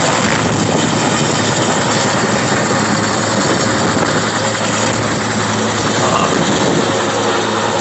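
Firefighting helicopter hovering close over a pond to dip its water bucket: loud steady rotor and engine noise.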